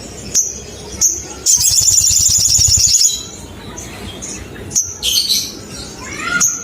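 Olive-backed sunbird calling: a few short, sharp, high "cuit" chirps, then a fast high trill lasting about a second and a half, then more chirps and a short warbling phrase near the end.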